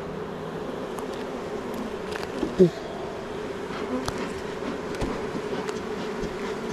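Honeybees buzzing over an open hive in a steady hum. About two and a half seconds in, one louder buzz sweeps up in pitch, and there are a few faint clicks.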